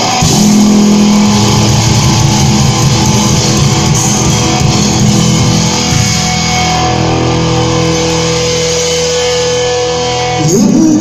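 Live rock band playing an instrumental passage with guitar to the fore, holding long sustained notes, with a rising slide near the end.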